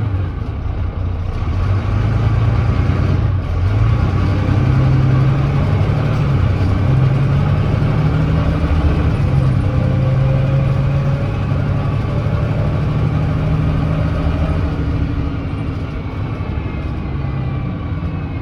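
Volvo D9B 9.3-litre diesel of a Volvo B9TL double-decker bus working hard up a hill under kickdown, with its ZF Ecolife automatic gearbox changing up. The engine note steps in pitch several times with the gear changes. The bus has an exhaust leak.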